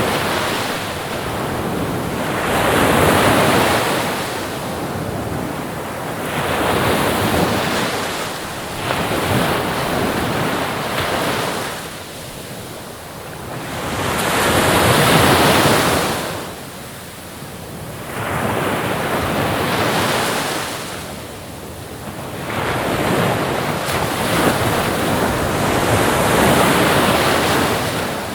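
Ocean waves breaking and washing on a shore, the surf noise swelling and falling back in slow surges every few seconds.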